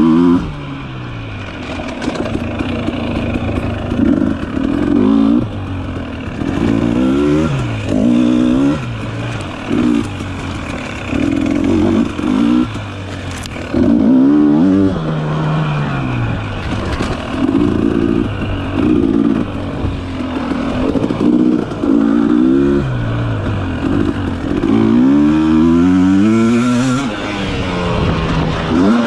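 Dirt bike engine being ridden hard on a trail. The throttle opens and closes over and over, so the engine pitch rises and drops every second or two.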